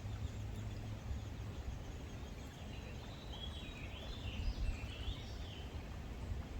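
A bird singing a warbling phrase of rising and falling high notes, starting about three seconds in, over a steady low rumble.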